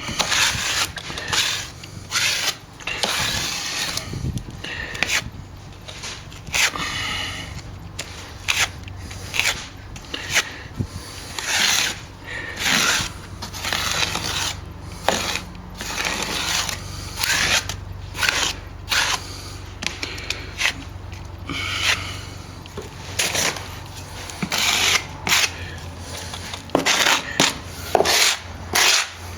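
Hand tool scraping back a patch of partly set sand-and-stopping-plaster fill on a wall, in repeated strokes that come quicker and shorter near the end, over a steady low hum.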